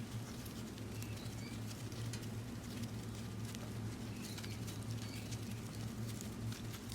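Wood burning in a fire stand, crackling with scattered sharp snaps and pops over a steady low hum. A few faint, short high chirps come near the start.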